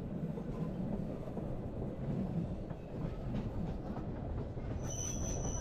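Bernese Oberland Railway electric narrow-gauge train running, a steady low rumble with a few faint wheel clicks over the rails. A thin high steady tone comes in near the end.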